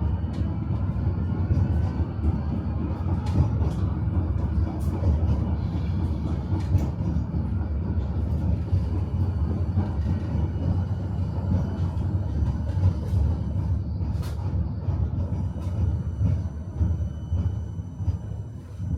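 Tram running along its rails, heard from inside the car: a steady low rumble of the wheels and running gear, with scattered sharp clicks and knocks from the wheels on the track.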